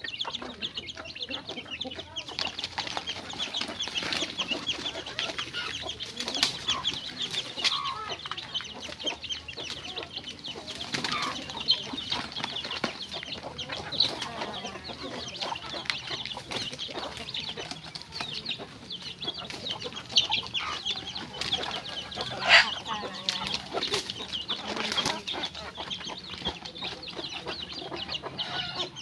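A flock of chickens clucking and chirping without a break, with a few louder single calls standing out now and then.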